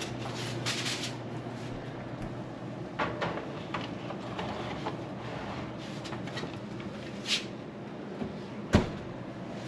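Kitchen handling sounds over a steady low hum: scattered clicks and knocks of cookware being moved, the loudest a single sharp knock near the end.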